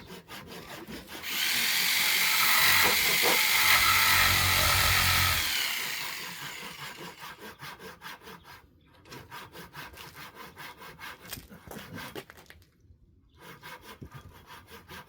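A power tool cutting into pallet wood: it runs loud for about four seconds from a second in, then dies down to quieter scraping and rubbing of wood.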